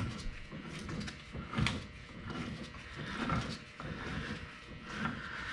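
Mopar 8.25 rear differential's ring and pinion gears being turned by hand through the pinion shaft to roll a contact pattern into the marking compound, giving irregular clicks and light knocks as the gear teeth mesh.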